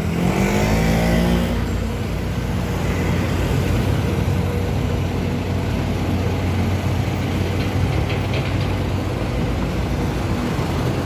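Engines of construction machinery and traffic running steadily with a low hum; in the first second or so a vehicle passes close by, its engine pitch falling as it goes.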